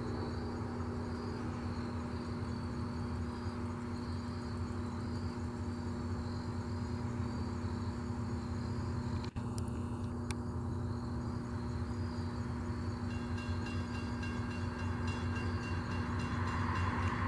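Diesel locomotive running with a steady low engine rumble and drone, getting louder over the last couple of seconds.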